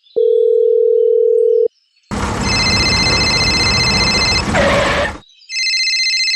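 Electronic sound effects: a steady beep lasting about a second and a half, then about three seconds of loud hiss with high ringing tones, then a buzzy electronic tone near the end.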